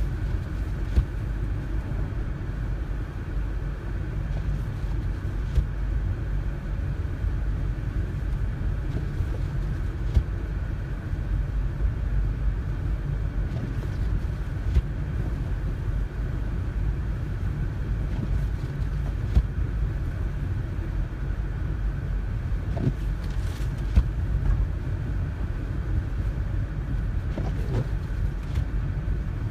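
Car cabin road noise while driving slowly on snowy roads: a steady low rumble from the engine and tyres. A sharp click comes about every four and a half seconds.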